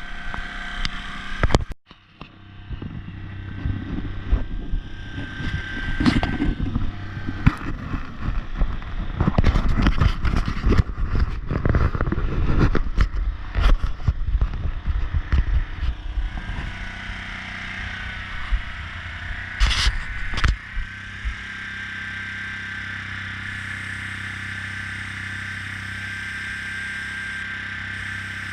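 A small motor running steadily with a steady whine, typical of an airbrush compressor, under a long stretch of irregular clattering and scraping knocks that dies away about two-thirds of the way through.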